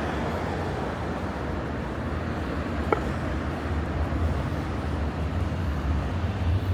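City road traffic with a steady low rumble and hiss of passing cars, with one short sharp click about three seconds in.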